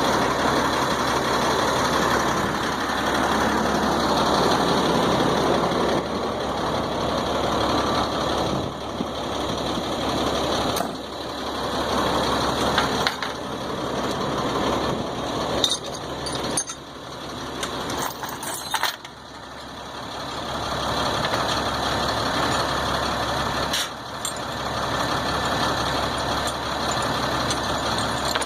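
A heavy diesel engine running steadily, with its level dipping briefly a few times.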